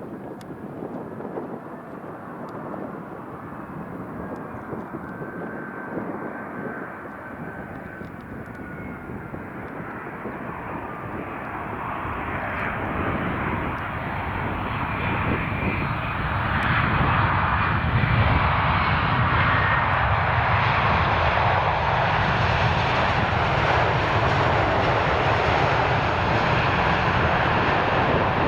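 Jet aircraft engines growing steadily louder as the plane approaches, reaching a loud, steady roar about two-thirds of the way in. A faint high whine slides slowly down in pitch as it comes closer.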